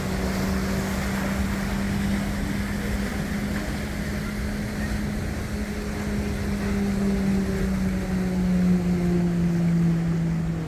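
Passenger boat's engine running with a steady low hum that drops slightly in pitch near the end, with wind on the microphone.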